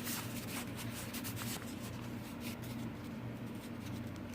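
Paper rustling and crinkling as the pages and paper inserts of a handmade journal are handled and turned, in short irregular scrapes, over a steady low hum.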